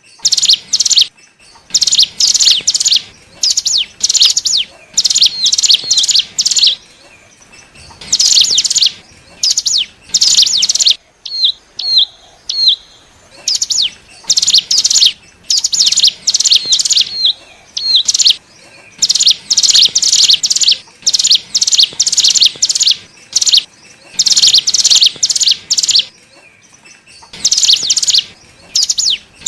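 Ciblek gunung (cigun) singing: bursts of rapid, high-pitched chattering trills, each one to two seconds long with short pauses between. A few separate short down-slurred notes come around the middle and near the end. This is the song used as a lure call to attract wild cigun.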